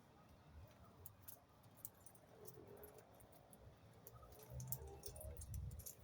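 Faint, quick, very high chirps of small birds, scattered throughout, with a low rumble toward the end.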